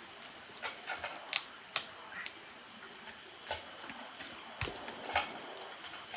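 Irregular sharp knocks and snaps from hand work on a fallen tree: wood, roots and debris being struck and broken, about a dozen scattered hits over a faint steady hiss, the loudest about a second and a half in.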